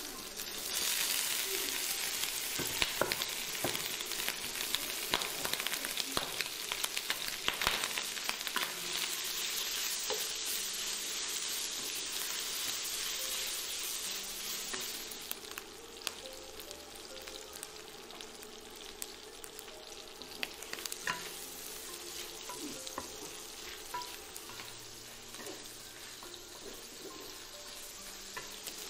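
Diced cured pork sizzling as it goes into hot oil in a stainless-steel wok and is stir-fried with a wooden spatula, with clicks and scrapes of the spatula against the pan. The sizzle starts about a second in and eases off about halfway through.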